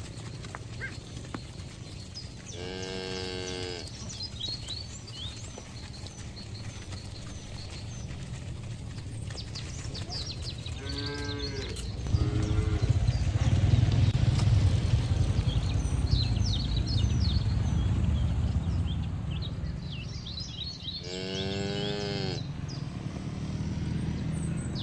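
Cattle mooing: three drawn-out moos, each about a second long, spread across the stretch, the middle one followed by a short grunt. Small birds chirp faintly throughout, and a low rumble swells in the middle.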